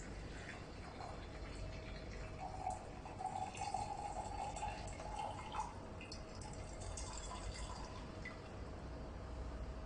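Tea being poured from a glass tea press through its strainer screen into a double-walled glass, a pouring trickle lasting about three seconds from a couple of seconds in, with light glass clinks around it.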